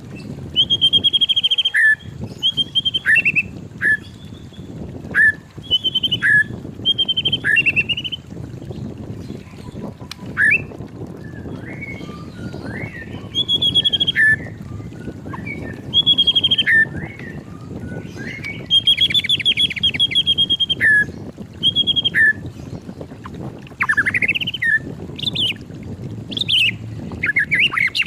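White-rumped shama singing: loud, varied whistled phrases every second or two, many sliding down in pitch at the end, some broken into fast rattling trills, over a steady low background rumble.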